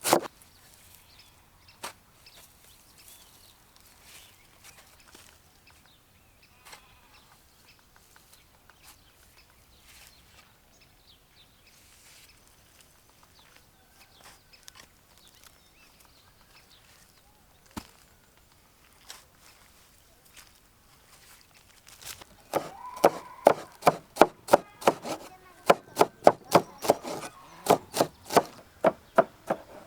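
Knife chopping on a wooden cutting board, a quick, even run of strokes, about three to four a second, starting about 22 seconds in. Before that, only a few faint scattered clicks.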